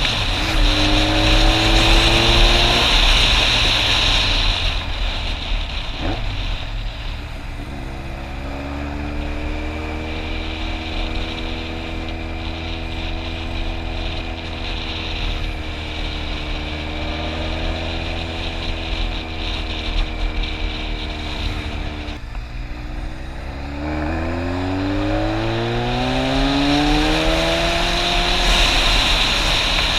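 Motorcycle engine under way. Its pitch rises near the start, holds fairly steady through the middle, then climbs again near the end as it accelerates. Wind rushes over the microphone throughout, loudest when the engine pulls hardest.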